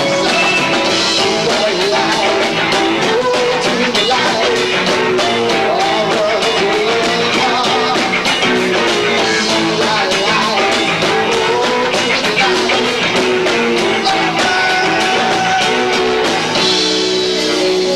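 Live rock band with two drummers playing loudly and frantically, with guitar and drums, recorded through a 1990s camcorder's built-in microphone, so the sound is rough and low-fidelity.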